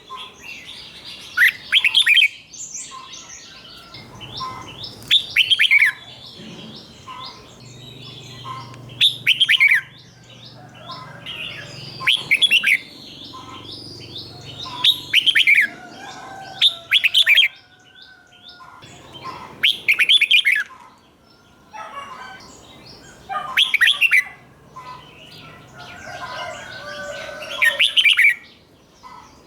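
Red-whiskered bulbul singing: short, loud whistled song phrases about every three to four seconds, with softer chirps and calls between them.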